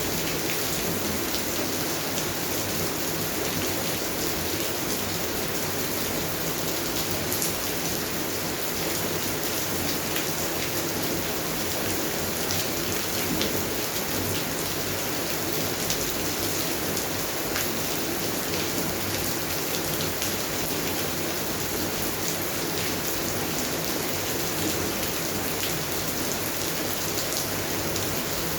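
Steady rain falling on a garden's plants, an even hiss with scattered individual drops ticking.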